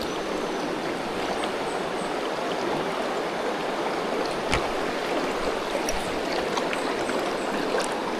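Fast-flowing river water rushing steadily, with a few faint clicks.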